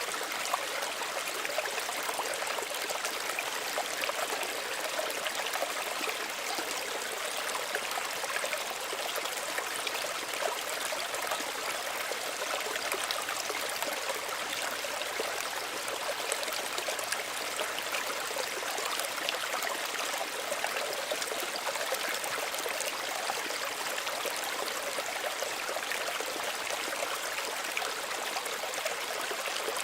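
Small stream running steadily, an even rush of water with many small splashes and trickles over it.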